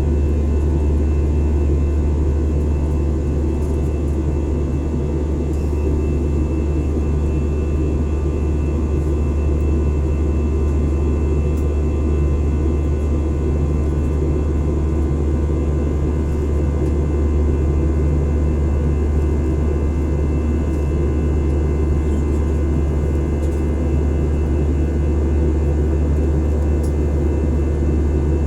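Passenger airliner cabin noise: a loud, steady, low drone of the engines and rushing air, with faint steady whines above it and no change throughout.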